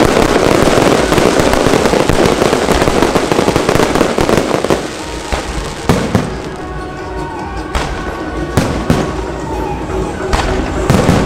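Fireworks: dense, continuous crackling for the first four seconds or so, then it thins out into single sharp bangs, about six of them spread over the rest.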